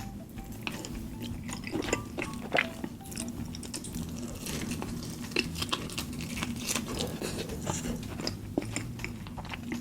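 Close-miked chewing of chicken and rice in a thick sauce, with many small crunches and mouth clicks.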